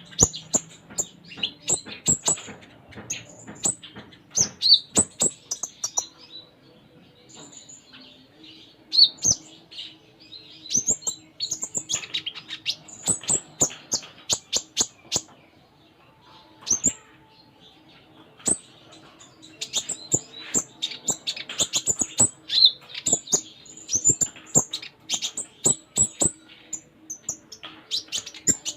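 Sunbird (kolibri ninja) singing vigorously in a stream of rapid, high chirps and twitters interleaved with mimicked phrases, among many sharp clicks, with a couple of brief quieter spells.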